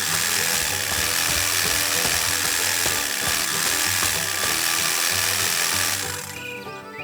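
A loud mechanical buzzing rattle, like a machine grinding, starting abruptly and dying away about six seconds in, over background music.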